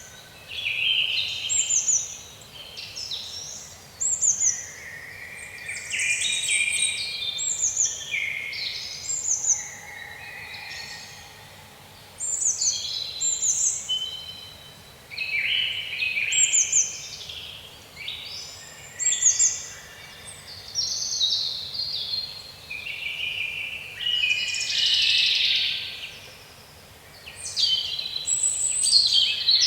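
Several songbirds singing, with overlapping chirps and quick high whistled phrases in frequent bursts, over faint steady background hiss.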